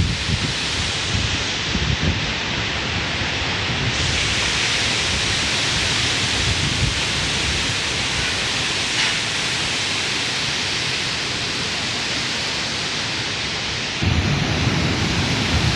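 Heavy rain falling in a steady hiss. Near the end it changes abruptly to gusty wind buffeting the microphone.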